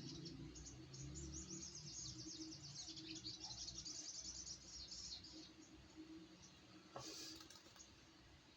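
A wild-caught sogok ontong bird calling: a fast, high-pitched chattering run of chirps lasting about five seconds. A single short rustle or knock follows near the end.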